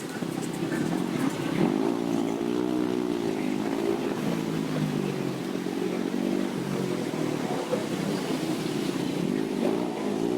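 Scooter engine running under a rider through city traffic, its pitch rising and falling several times as the throttle opens and closes, over steady road and wind noise.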